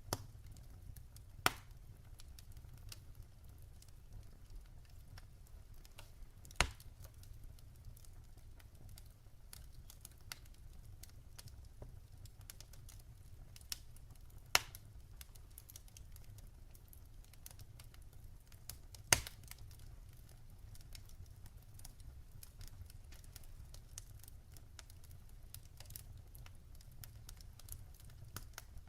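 Log fire in a fireplace crackling: a soft low rumble of flames under faint little ticks, with four louder sharp pops spaced several seconds apart.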